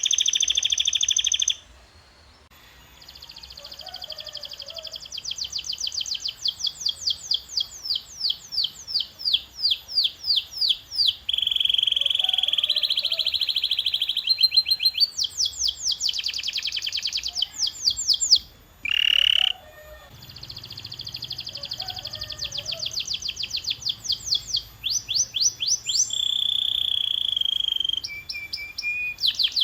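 Domestic canary singing a long song: runs of fast repeated chirps alternate with high, steady rolling trills. There is a short pause about two seconds in and another just before twenty seconds.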